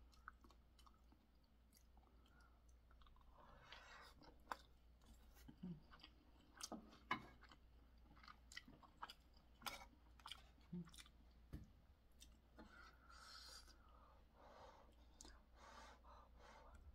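Faint close-up chewing of soft, sticky food (a seaweed-coated rice ball and spicy boneless chicken feet), with many small scattered clicks.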